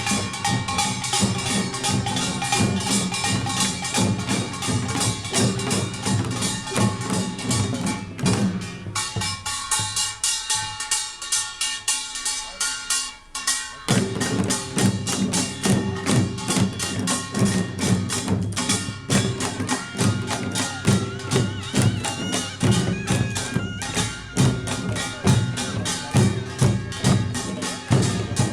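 Korean pungmul farmers' band playing Jeolla Jwado gut: rapid clanging of kkwaenggwari small gongs over janggu and buk drums. The drums drop out for a few seconds about nine seconds in, leaving the gongs alone, then come back in together around fourteen seconds.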